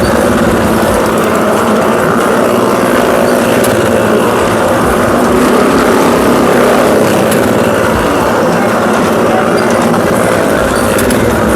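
Motorcycle and car engines running steadily without a break as they ride around the wall of a well-of-death (maut ka kuan) drum.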